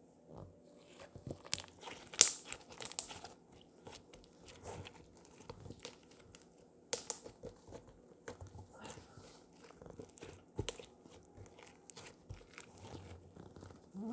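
Slime being squeezed and worked by hand, giving irregular crackling clicks and pops, loudest a couple of seconds in.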